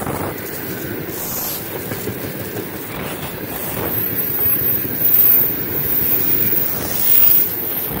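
Freight train's open wagons rolling past close by: a steady rumble of wheels on the rails, with wind buffeting the microphone. It swells louder twice, about five and seven seconds in.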